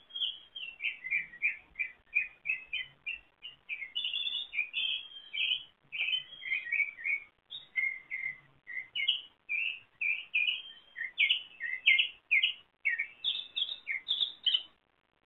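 Songbird singing a fast, unbroken string of varied chirps and whistled notes, cutting off suddenly near the end.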